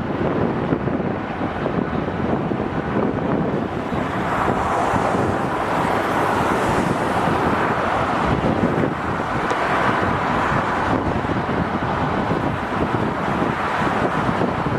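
Strong wind buffeting the microphone over steady jet engine noise, which grows a little brighter for several seconds in the middle.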